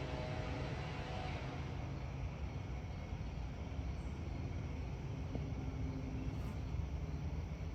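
Aircraft engine noise, a steady low rumble, with a faint whine that fades out about a second and a half in.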